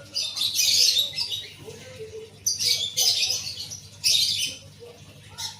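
Pet conure parrot giving harsh, noisy squawking chatter in four bursts. The first burst is about a second long, and the last is brief, near the end.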